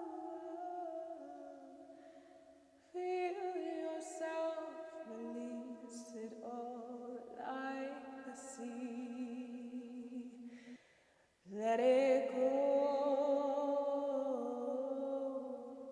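A woman singing wordless, long held vocal tones, channeled sound toning, with the pitch stepping between sustained notes. She breaks off twice, briefly about three seconds in and for a short silence about eleven seconds in, before coming back in.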